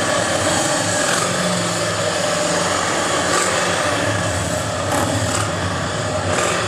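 Several vehicle engines running steadily together, with low engine notes and a higher one above them.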